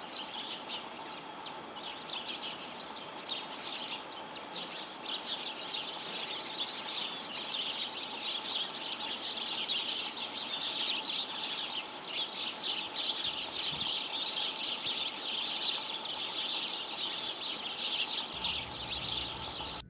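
A flock of small wild birds chattering: many short chips and calls overlapping in a constant busy chorus, with a few higher single notes now and then.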